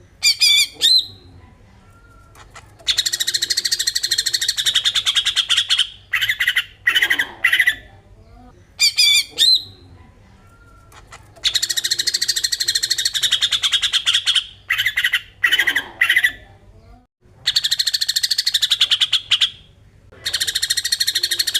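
Cucak ijo (green leafbird) in agitated 'besetan' song: long, fast rattling phrases of rapidly repeated notes, each lasting a few seconds. Short sharp call bursts and brief pauses come between the phrases.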